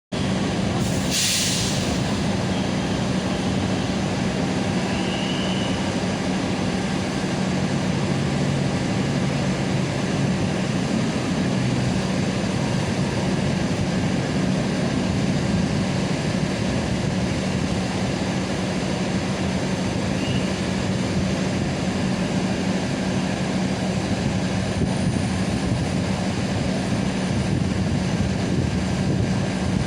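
Train at a railway station: a steady rumble with a constant low hum that stays level throughout. There is a brief sharp click about a second in.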